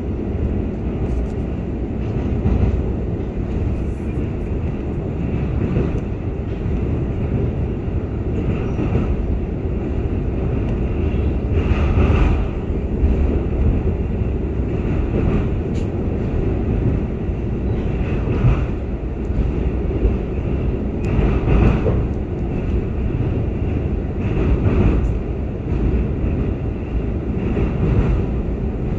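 Seoul Line 1 train running at speed over a steel truss railway bridge, heard from inside the carriage: a steady low rumble of wheels on rail, growing briefly louder and brighter several times.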